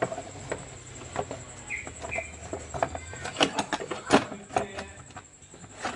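Scattered sharp clicks and metal clinks of hand tools and a 10 mm socket on engine parts, irregular and several per second in places. Two short chirps come a little under two seconds in.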